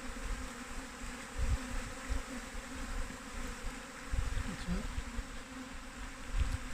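A swarm of honeybees buzzing in a steady hum, with irregular low rumbles underneath.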